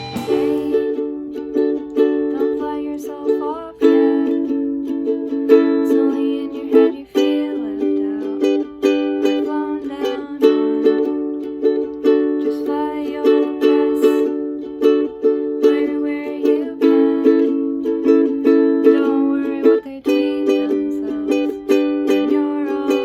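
Music: chords strummed on a small acoustic string instrument in a steady rhythm, with brief breaks at the chord changes.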